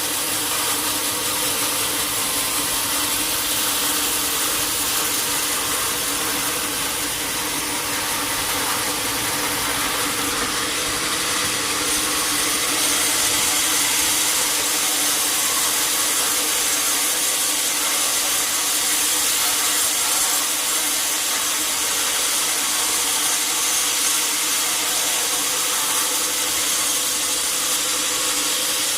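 Sawmill saw running steadily through a teak log: a continuous machine hum with a loud high hiss of cutting, growing slightly louder about halfway through.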